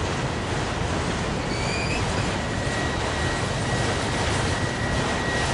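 Freight train of autorack cars rolling past at close range: a steady rumble and clatter of steel wheels on the rails. A thin, steady high whine joins in about halfway through.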